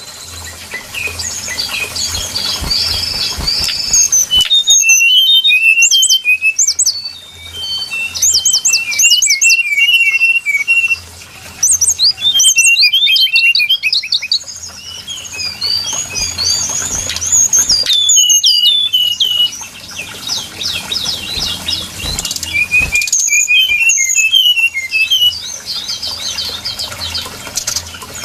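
Brown-chested jungle flycatcher song played as a bird-lure recording: rapid, varied phrases of high chirps and slurred whistles, broken by short pauses every few seconds.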